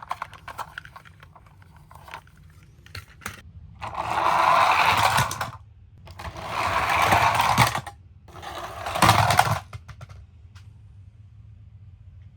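Toy vehicles rolling down a slope, their wheels whirring in three runs of one to two seconds each, with small clicks and knocks of toys being handled in between.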